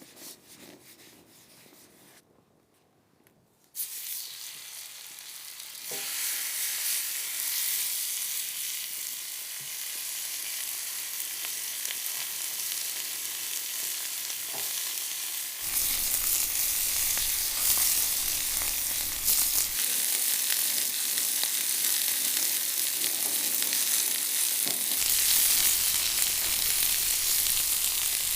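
Food sizzling on a hot grill, starting about four seconds in as a steady hiss and growing louder, with a further rise past the middle.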